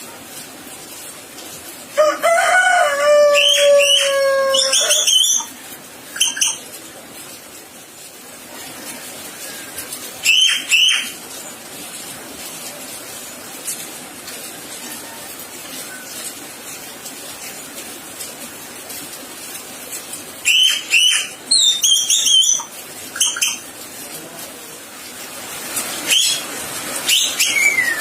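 A gagak sule bird calling in loud, separate bursts of whistled, gliding notes. The longest phrase, a run of falling whistles, comes about two seconds in; further calls come at intervals, a cluster of several near the end.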